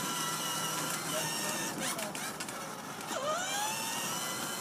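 Electric motors of a Barbie Jeep ride-on toy car running with a steady whine. A few clicks sound about two seconds in, then the pitch drops sharply about three seconds in and climbs back up as the motors spin up again.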